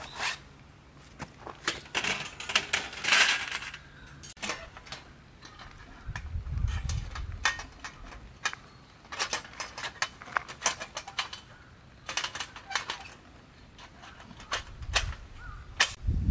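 Firewood cracking and snapping: an irregular series of sharp snaps and clicks, with a low rumble about six seconds in.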